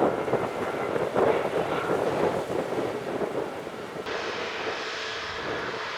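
Airbus A320neo jet engines running, a steady rumble with wind buffeting the microphone. The sound changes abruptly about four seconds in.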